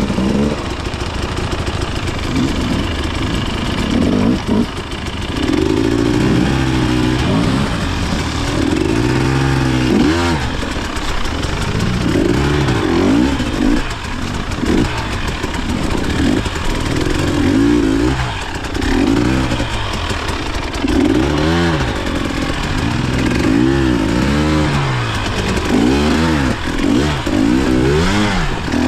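KTM enduro dirt bike engine being ridden hard, the revs rising and falling over and over as the throttle is opened and closed every second or two.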